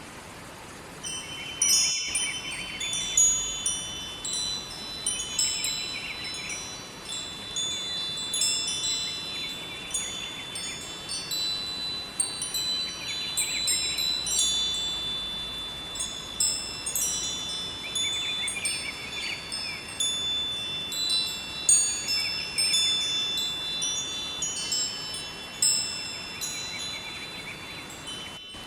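Metal wind chimes ringing, many high tones struck irregularly and overlapping as they ring on. They grow louder about a second in.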